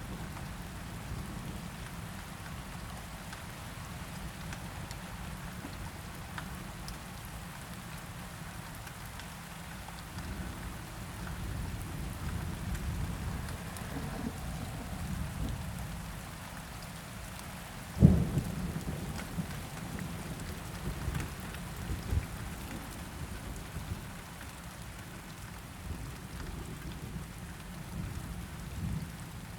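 Steady rain on a window with thunder rumbling low. A sudden sharp thunderclap a little over halfway through is the loudest moment, followed by a few fainter rumbles.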